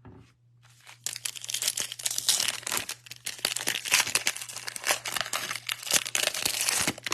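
Foil wrapper of a 2023 Bowman baseball card pack crinkling and tearing as it is ripped open and handled: a dense crackle of about six seconds that starts about a second in.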